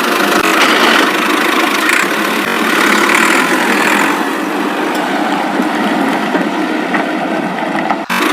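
Steady engine running sound for a toy tractor being driven along, with a brief break just before the end.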